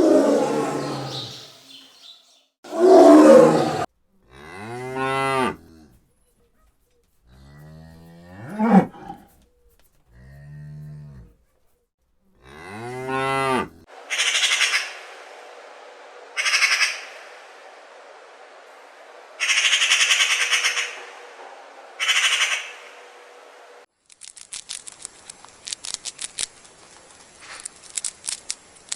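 A run of animal calls. The main ones are five drawn-out cattle moos in the first half, each a low pitched lowing call. Two rough calls come before them, four short hissing bursts follow, and a patter of faint clicks closes it.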